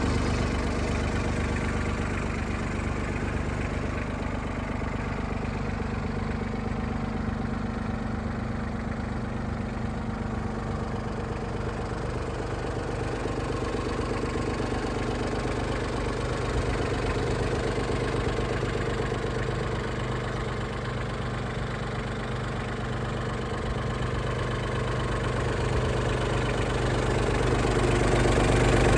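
Yanmar AC21 crawler tractor's 21 hp three-cylinder diesel engine running at a steady speed, growing louder near the end.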